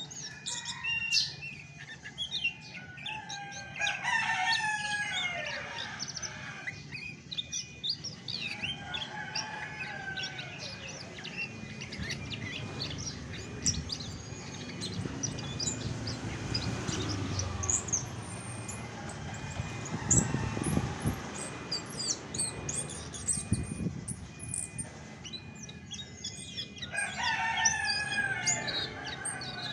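Chestnut-backed thrush (anis macan) singing: quick runs of varied whistled and chattering notes, densest at the start and again near the end. A low rumble comes up in the middle stretch.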